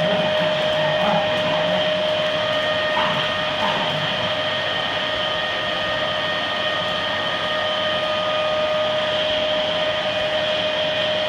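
Hoover vacuum cleaner motor running steadily, a constant drone with a high, even whine.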